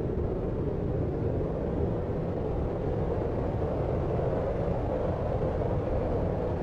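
Steady deep noise, a low even rumble like brown noise, with no distinct events and no change in level.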